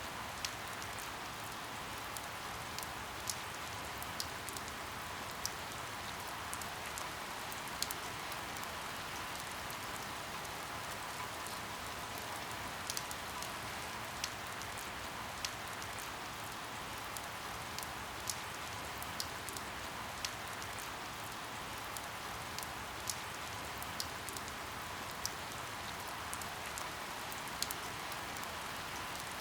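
Steady rain falling, an even hiss with many scattered sharp drips striking a hard surface at irregular intervals.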